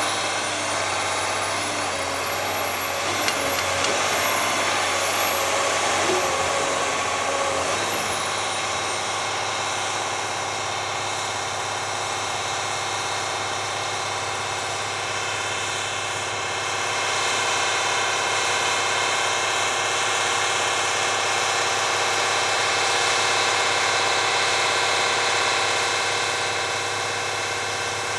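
Madill 2200 feller buncher's diesel engine running steadily. For the first eight seconds or so a high whine rides over it, then falls away.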